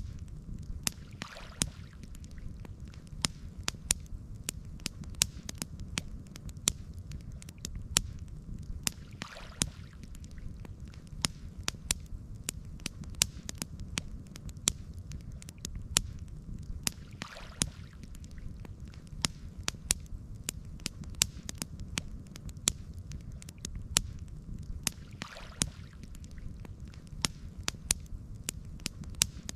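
Campfire crackling, with many sharp pops over a steady low rumble of burning wood. A soft swish comes about every eight seconds.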